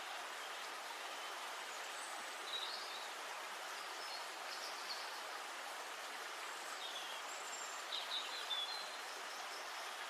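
Steady rushing of flowing river water, with small birds chirping briefly several times, the loudest chirps near the end.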